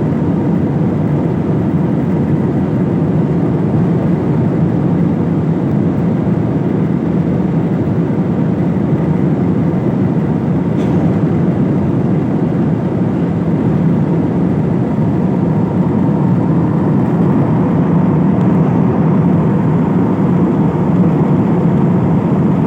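Steady engine and airflow noise of an airliner in flight, heard from inside the cabin: a continuous low rush with a faint steady whine above it.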